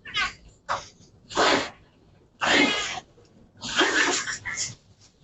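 Harsh animal cries and hisses in five or six short bursts: dogs attacking a cat.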